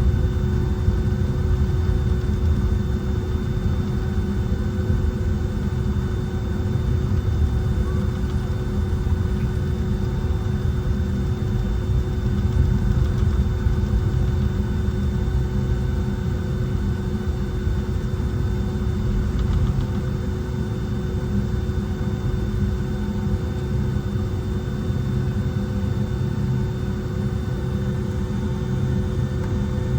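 Steady cabin noise inside a Boeing 757-200 airliner: a constant low rumble from its jet engines and airflow, with several steady engine tones running through it.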